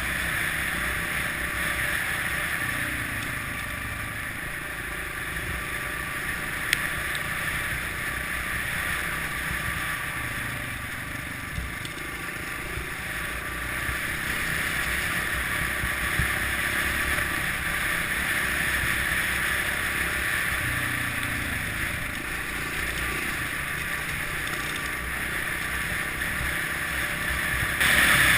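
Kawasaki KLX650R's single-cylinder four-stroke engine running at fairly steady, moderate revs under way off-road, with wind noise on the microphone. It grows louder right at the end.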